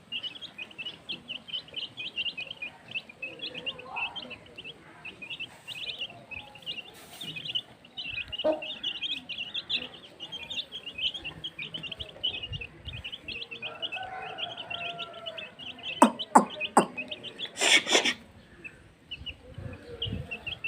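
Aseel chicks peeping continuously, many short high chirps overlapping. A few loud sharp knocks and a brief rustling burst come about three-quarters of the way through.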